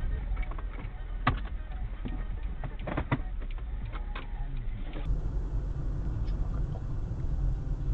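A car driving, with a steady low rumble of engine and road noise and several sharp clicks in the first half. The sound changes abruptly about five seconds in.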